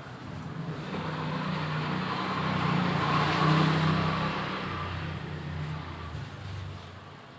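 A motor vehicle passing by: its engine hum and road noise swell, peak about midway, then fade away.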